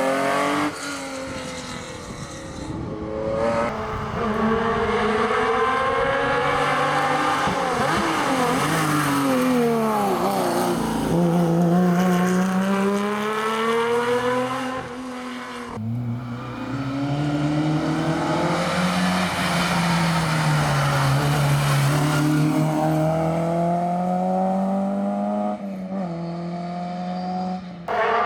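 Historic rally cars' engines at full stage pace, the note rising and falling repeatedly through gear changes and lifts, several cars one after another with abrupt cuts between them.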